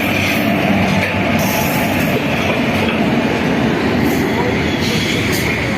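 Puri–Ahmedabad superfast express passing through the station at speed without stopping: a loud, steady rumble of the coaches on the track, with brief high-pitched flares every second or so.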